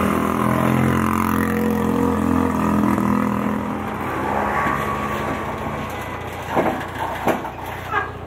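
Small rally car with an air-cooled two-cylinder engine, a Fiat 126p, driving past; its engine runs steadily and then fades away over a few seconds. Near the end come three sharp knocks, about two-thirds of a second apart.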